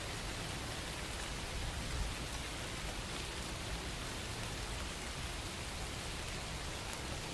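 Steady rain falling, an even hiss with dense patter of drops.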